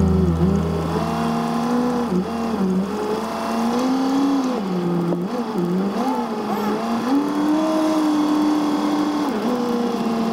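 The vehicle's engine, heard from inside the cab as it creeps along, its pitch repeatedly rising, falling and holding level as the driver eases off and on the throttle.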